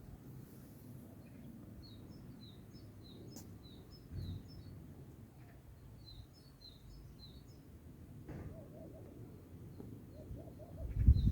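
A songbird singing phrases of quick, high chirps, twice, with a lower repeated call joining in the last few seconds, over a faint low background rumble.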